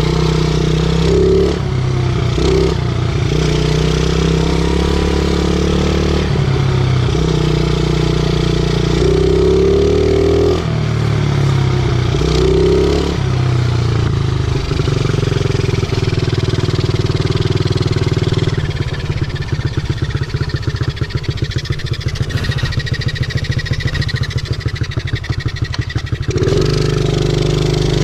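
50cc pit bike engine under way, its pitch rising and falling with throttle and gear changes. Past the middle it drops for several seconds to a low, evenly pulsing putter, then revs up again near the end.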